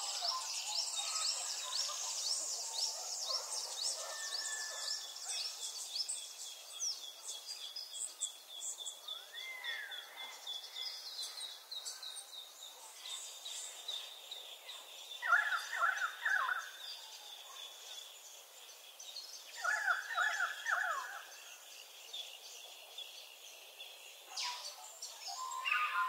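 Songbirds singing: a mix of high, quick twittering songs and trills, with two louder bursts of lower calls past the middle.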